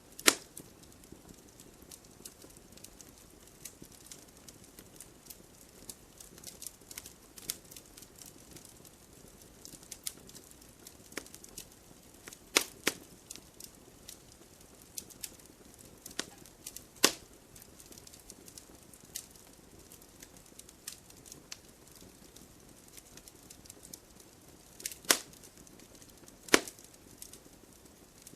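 Wood bonfire crackling: frequent small snaps over a soft hiss, with a few louder pops, one near the start, two in the middle and two close together near the end.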